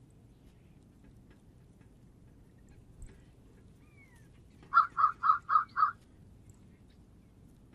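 A bird calling five times in quick succession, loud, even-spaced calls a little under five seconds in, after a faint short whistle.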